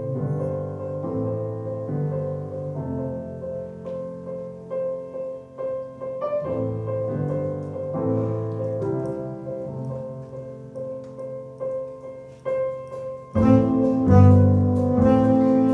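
Instrumental keyboard music: slow, sustained chords over a steady held note. About thirteen seconds in it turns louder and fuller, with a deep bass part.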